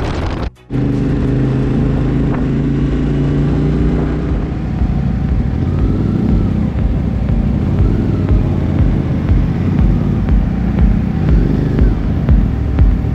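Motorcycle engine running while riding, a steady drone that turns rougher and more uneven in the second half, with low buffeting rumbles. The sound cuts out briefly just over half a second in.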